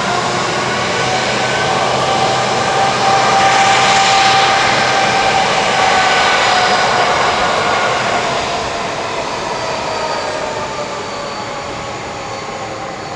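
Airbus A330-200's twin Pratt & Whitney PW4000 turbofans at takeoff thrust: a loud jet roar with whining tones. The sound peaks as the airliner passes, then the whine drops slightly in pitch and the roar fades away over the last few seconds.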